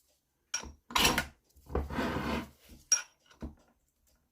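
Metal hand tools knocking and scraping against engine parts during disassembly: a few sharp clinks and knocks, with a scrape lasting about a second near the middle.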